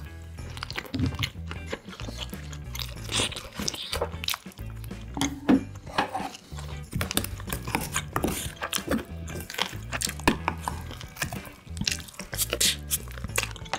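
Close-miked chewing and crunching of grilled LA galbi and kimchi, with many short clicks and mouth sounds, over low background music.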